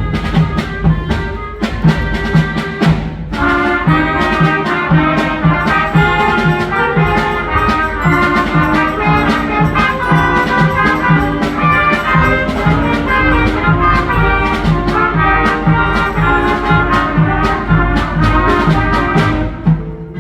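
Brass band music with a steady drum beat, about two beats a second, breaking off near the end.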